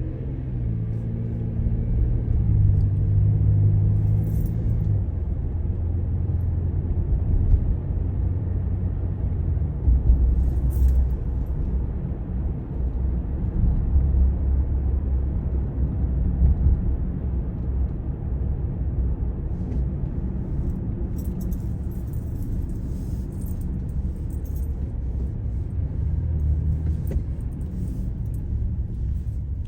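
Steady low drone of a vehicle's engine and road noise heard from inside the cabin while driving, its engine tone stepping down about five seconds in. Light rattling and jingling comes in near the end.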